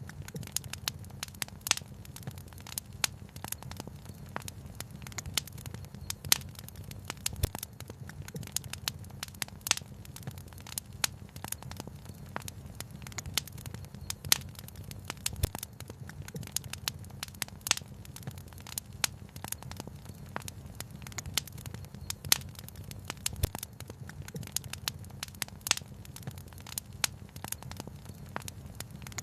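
Wood fire crackling, with frequent irregular sharp pops and snaps, a few of them louder, over a steady low rumble.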